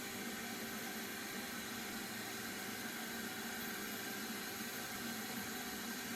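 A machine running steadily: a continuous, even whir and hiss with a steady hum, like a motor-driven vacuum or fan.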